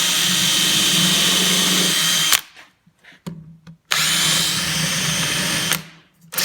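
Power drill with a countersink bit pre-drilling screw holes in melamine cabinet panels: two runs of about two to three seconds each, with a steady whine, stopping between holes, with a few small knocks in the pause.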